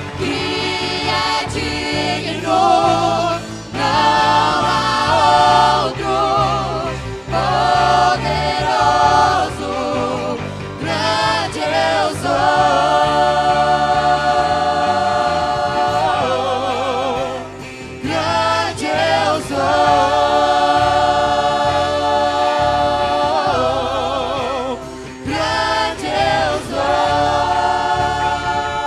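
A choir singing a gospel worship song in Portuguese, with held notes and vibrato over band accompaniment.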